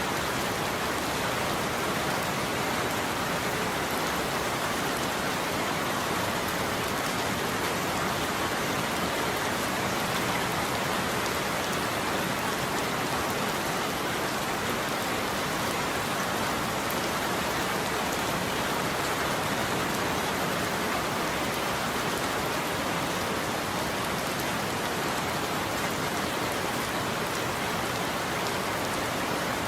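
Steady heavy rain falling on a surface, an even hiss without thunder.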